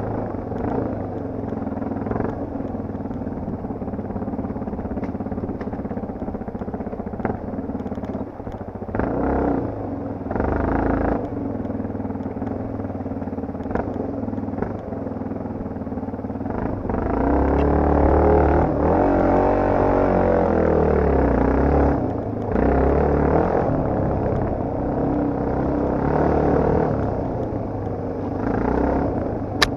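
Yamaha TT250R's single-cylinder four-stroke engine running under way off-road, getting louder about halfway through, with the revs rising and falling.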